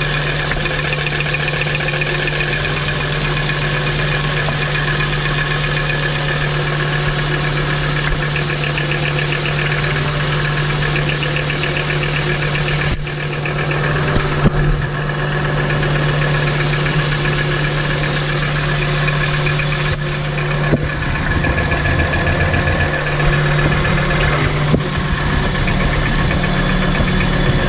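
Volkswagen T4's 2.5-litre five-cylinder AAF petrol engine idling with a knock, while its spark plug caps are pulled one at a time to find the cylinder at fault. The running shifts briefly twice partway through, but the knock stays, so it is not traced to one cylinder.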